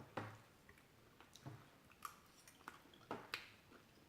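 Faint chewing and wet mouth sounds: soft sticky smacks and small clicks scattered through a few seconds.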